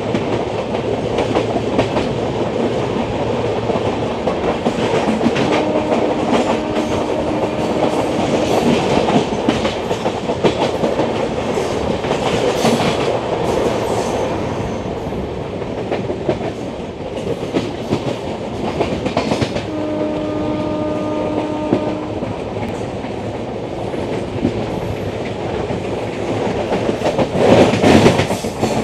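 Two trains passing each other at speed on adjacent tracks, heard from the open door of a moving coach: a steady rush of wind and wheels with clickety-clack over the rail joints. A train horn blows twice, a few seconds each time, about six and twenty seconds in, and a louder rush comes near the end.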